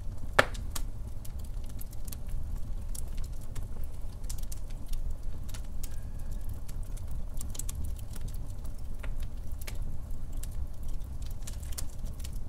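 Wood fire crackling in a fireplace: irregular sharp snaps and pops over a low steady rumble, with one loud pop about half a second in.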